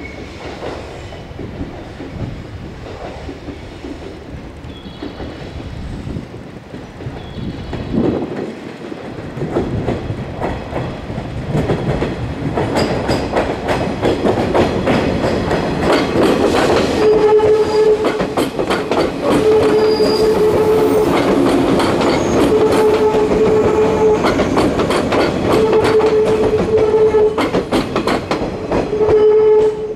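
JR 117 series electric train running slowly over the points, its wheels clacking over rail joints, getting louder as it draws close and passes. From about halfway a steady high tone comes in short pulses about every three seconds.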